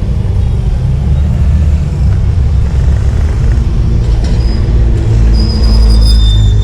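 Wind buffeting the microphone of a camera on a moving bicycle: a loud, steady low rumble. A high thin squeal comes in briefly about four seconds in and again near the end.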